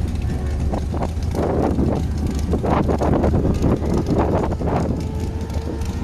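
Formula 500 race car running on track, its engine tone half buried under heavy wind buffeting on the microphone that surges in waves.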